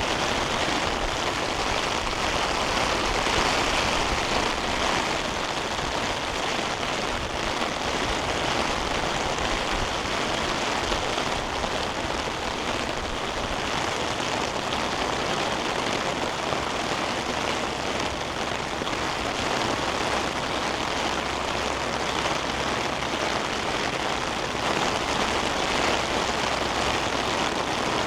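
Heavy rain falling, a steady dense patter of drops.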